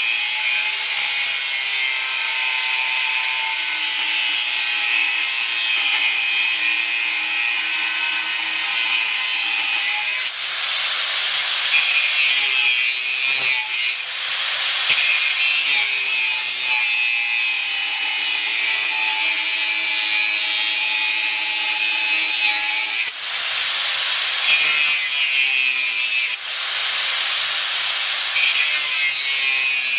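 Angle grinder with a cutoff wheel cutting steel plate: a steady motor whine over a loud hissing grind. The motor's pitch dips and the grinding swells several times as the wheel bites harder into the cut.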